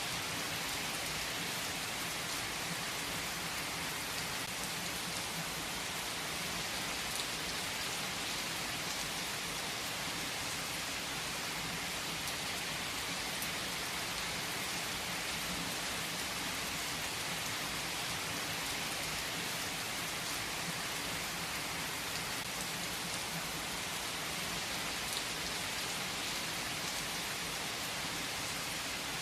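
Steady, unbroken rainfall, a dense even patter of drops with no breaks or changes.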